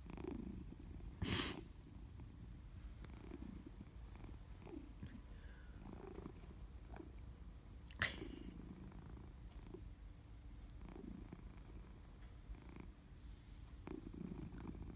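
Domestic cat purring softly, the low rumble swelling and fading with each breath. A brief rustle about a second in and a sharp click near the middle are louder than the purr.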